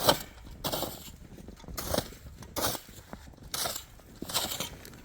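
Footsteps crunching in snow at a steady walking pace, about seven steps.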